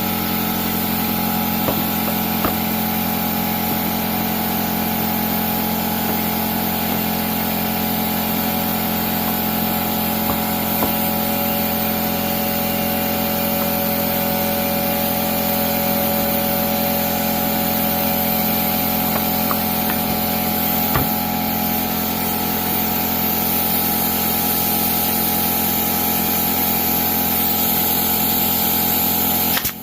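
A motor-driven machine running steadily with a hum of several held tones. A few faint knocks sound over it, one more distinct about two-thirds of the way through.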